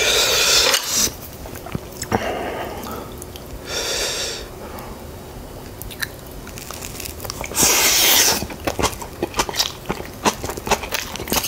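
Close-miked eating: rice and food handled with chopsticks and a wooden spoon, then a spoonful of rice topped with kimchi taken into the mouth and chewed with a quick run of crisp crunching clicks over the last few seconds.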